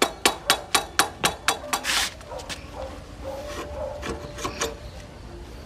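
Rapid, regular knocks, about four a second, that stop about two seconds in. A short scrape follows, then a few scattered light clicks.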